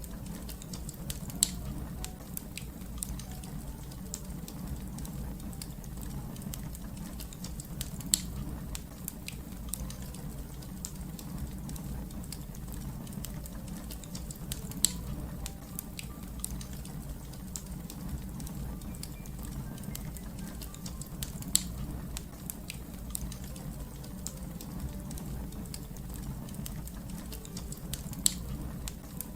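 Wood fire crackling: a steady low rumble under a dense run of small crackles, with a louder sharp pop every six or seven seconds.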